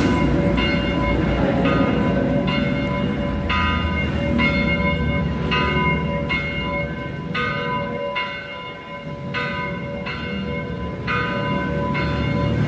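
Metal being struck over and over, each blow ringing out, roughly one to two blows a second at uneven spacing, over a steady hum.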